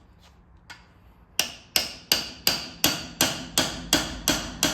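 Hammer driving stock shims in behind the bearing race of a Sterling 10.5 rear axle: about ten sharp, ringing strikes, roughly three a second, evenly paced, starting about a second and a half in.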